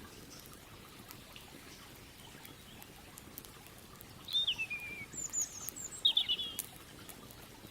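Birds calling, a quick run of chirps and falling calls about halfway through, over the faint crackle and popping of a campfire and a low steady rush of river water.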